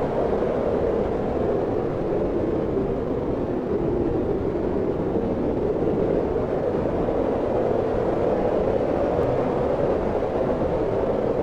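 Wind blowing steadily, a continuous rushing noise that swells and eases slightly without ever dropping away.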